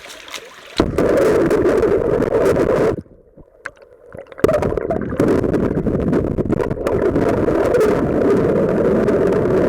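Stream water heard through an action camera's microphone held underwater: a loud, muffled, steady rushing gurgle. It drops out suddenly for about a second and a half around three seconds in, then returns.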